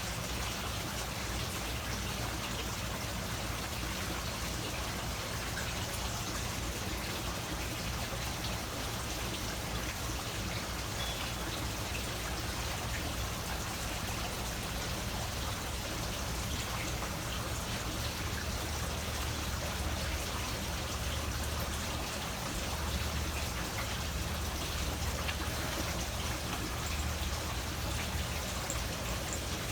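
Steady pattering of falling water, an even wash of noise with no breaks.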